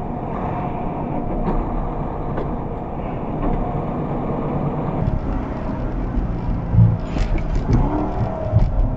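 A car's engine and road noise heard from inside the car, steady, with a few short knocks and thumps in the last couple of seconds.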